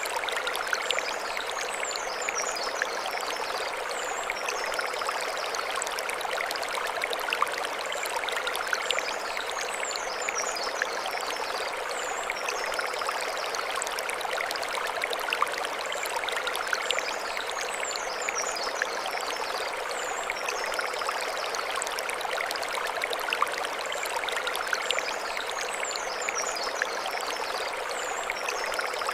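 Mountain stream running steadily over stones, a constant rushing and splashing. Brief high twittering recurs about every eight seconds above it.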